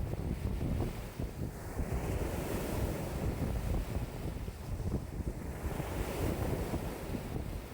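Strong wind buffeting the microphone, with lake waves rushing and washing in, swelling and fading every few seconds.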